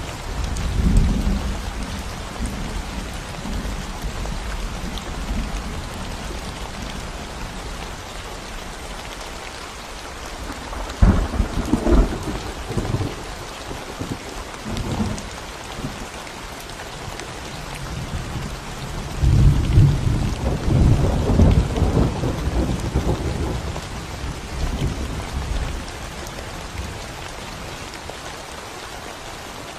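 Steady rain falling on a concrete road, with low rolls of thunder breaking in: a short one near the start, another about eleven seconds in, and a longer one from about nineteen to twenty-six seconds.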